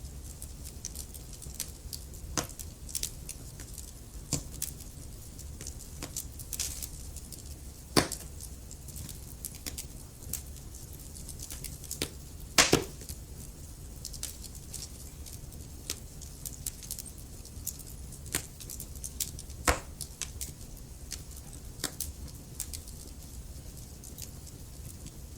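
Wood fire crackling in a fireplace: irregular sharp pops and snaps over a low steady rumble, the loudest snaps about eight, twelve and a half and twenty seconds in.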